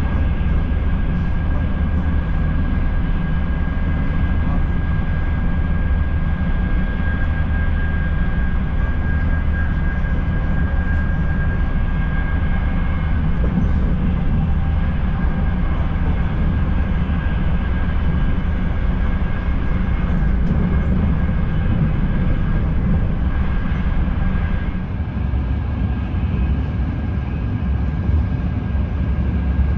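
ETR 500 high-speed train running at speed, heard inside the passenger coach: a steady low rumble with a faint high whine. The sound dips slightly about 25 seconds in.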